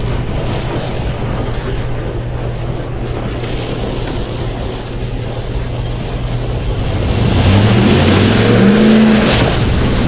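Ram 1500 pickup's engine running steadily, then revving up about seven seconds in, its pitch climbing before it levels off and eases back near the end. A hiss swells along with the revs.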